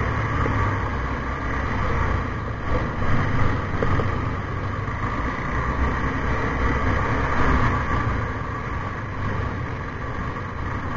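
KTM 390 Adventure's single-cylinder engine running at low speed through tight corners, heard from an onboard camera with wind and road noise over it.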